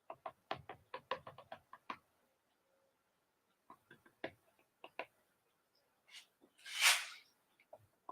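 Paint spoon clicking and tapping against a small paint cup: a quick run of light taps over the first two seconds, then a few more spaced taps. A short hiss-like burst, the loudest sound, comes near the end.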